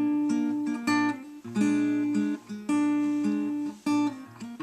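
Acoustic guitar playing an instrumental passage, with a new chord sounding about once a second.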